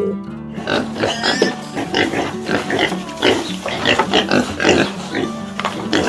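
Animal calls: a rapid, irregular run of short grunting and squealing calls, several a second, starting about half a second in, over a low steady hum.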